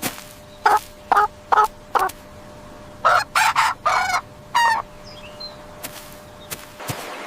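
A rooster: four short clucks, then one full crow of several parts, the last part drawn out.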